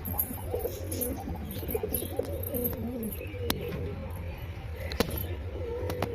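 Pigeons cooing, a string of low, wavering calls, over a steady low hum. Two sharp clicks come about midway and near the end.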